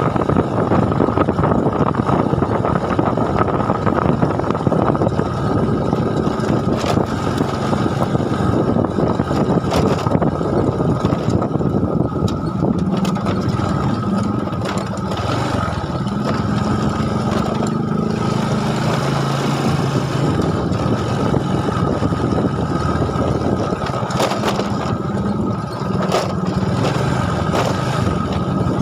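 An engine running steadily under a heavy low rumble, its pitch wavering slightly.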